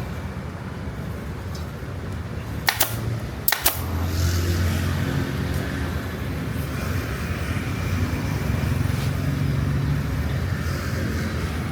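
A motor running with a steady low hum, and two sharp clicks close together about three seconds in.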